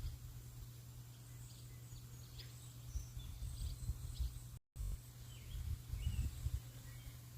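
Faint, short bird chirps over a low rumble that comes and goes, with a brief cut-out in the sound about two-thirds of the way through.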